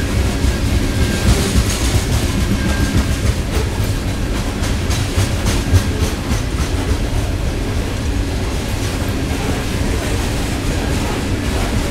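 Freight train of coal cars rolling past, a steady low rumble with the steel wheels clacking repeatedly over the rail joints.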